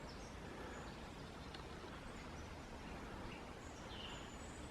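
Quiet woodland ambience, a steady soft hiss of background noise, with a few faint, short, high bird chirps in the second half.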